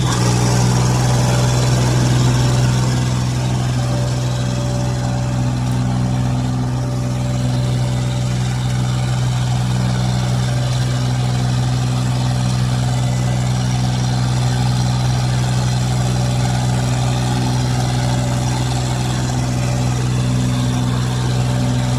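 Tractor engine running at a steady speed, a constant low hum with no revving.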